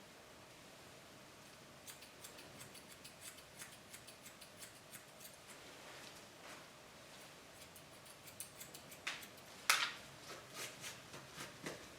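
Grooming shears snipping a dog's hair, a steady run of quick quiet snips with a few louder cuts near the end.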